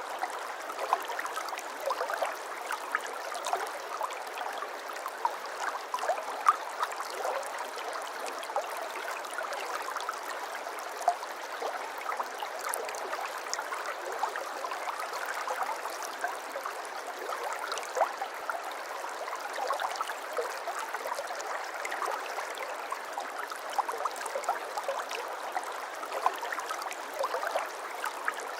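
Stream water flowing and babbling steadily, with many small splashes and gurgles.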